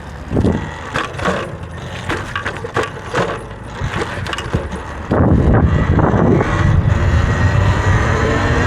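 Riding an electric dirt bike: irregular clatter and crunching knocks at first, then about five seconds in a sudden, loud rush of wind noise on the microphone as the bike picks up speed.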